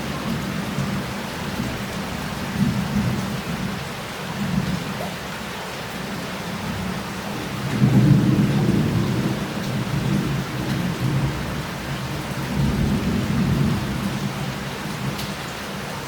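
Heavy rain falling and running off street tiles, with rolls of thunder rumbling through it; the loudest roll comes about halfway through, with further rumbles before and after.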